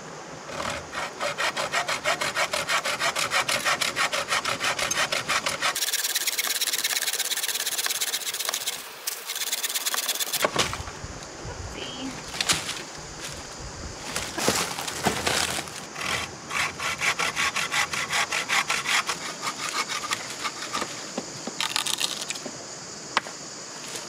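Hand saw cutting through wood in quick, even back-and-forth strokes, with a break of a few seconds near the middle.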